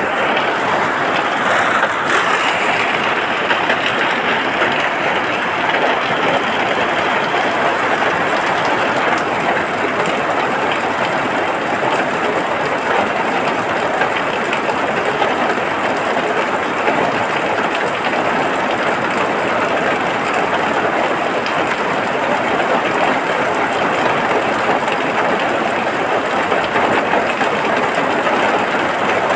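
Steady rain falling without pause, an even wash of noise with no distinct drops or breaks.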